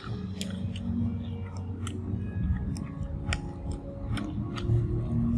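A person chewing a mouthful of food with wet mouth clicks and smacks, sharp clicks coming irregularly every half second or so.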